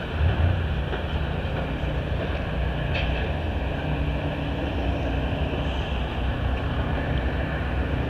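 Steady low mechanical rumble, like heavy machinery or an engine running, with a brief louder swell about half a second in.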